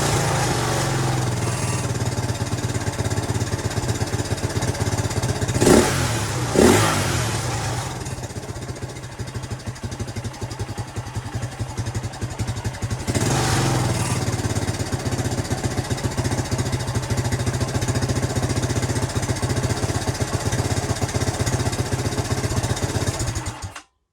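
Jianshe JS200GY's 200cc air-cooled four-stroke single running, blipped twice around six seconds in, then settling lower before being revved up again about thirteen seconds in and held there. It cuts off abruptly just before the end.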